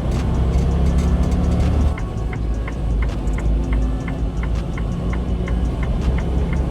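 Semi-truck engine running, heard from inside the cab, with its rumble dropping about two seconds in. From then on a flasher relay ticks about three times a second.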